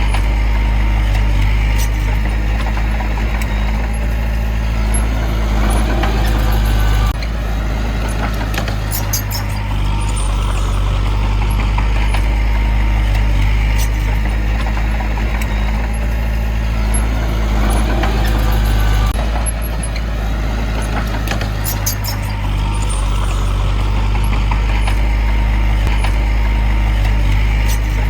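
Heavy diesel engine of earth-moving machinery running steadily and loudly, with brief metallic clicking and rattling twice, about nine and twenty-one seconds in.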